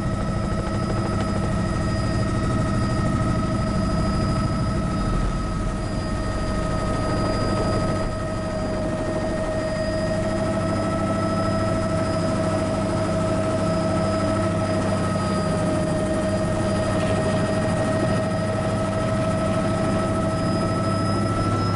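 Bell 206B JetRanger helicopter's Allison 250 turbine and rotor running steadily: a constant high turbine whine over the low beat of the rotor.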